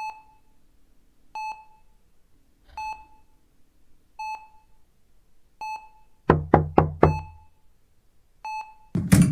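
Hospital heart monitor beeping steadily, one beep about every second and a half. About six seconds in come four quick knocks, and a loud thump comes near the end.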